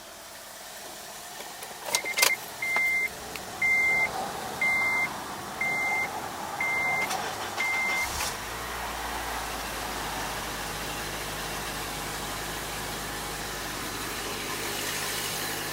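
A Honda car's chime beeps seven times, about once a second, after a click or two. A little past halfway the engine cold-starts and settles into a steady idle with an exhaust leak audible.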